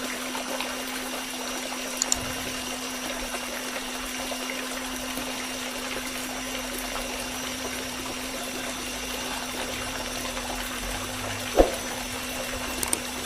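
Small homemade water pump running with a steady hum while water trickles and pours. There are a couple of small clicks about two seconds in and a single sharper knock later on.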